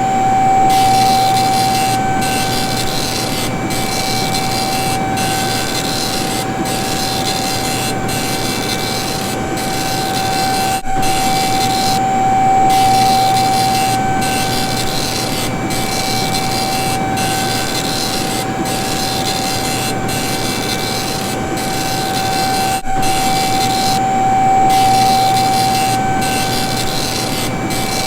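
Continuous dot matrix printer and hydraulic machine noise: a steady hiss under a constant whine, with the high hiss cutting out briefly about every second and a half as the print passes stop and start. The level dips for an instant twice.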